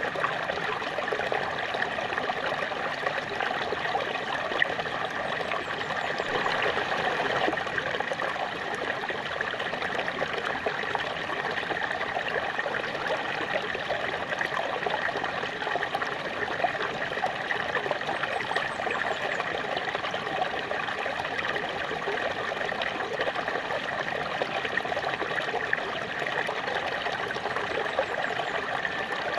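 Small waterfall splashing and trickling in a steady, unbroken rush.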